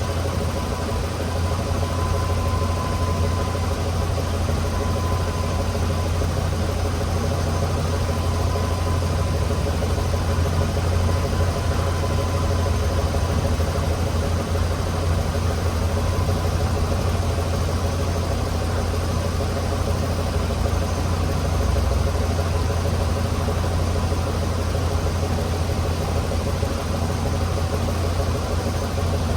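2012 Blue Bird school bus engine idling steadily with a deep, even hum. A faint thin whine sits above it for the first few seconds.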